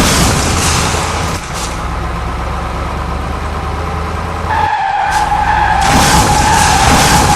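Vehicle engine sound effect: a steady low engine rumble with a noisy high hiss over it, like tyres skidding. The hiss fades about a second and a half in and returns, louder, near the end.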